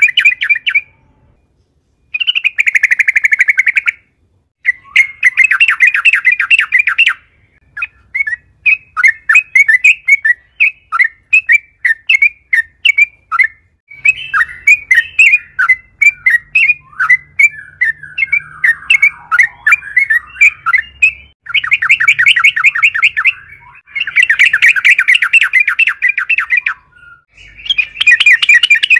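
Yellow-vented bulbul (trucukan) singing in loud, fast chattering trills, in bouts of two or three seconds with short gaps between them. In the middle the song breaks into a looser run of separate chirping notes.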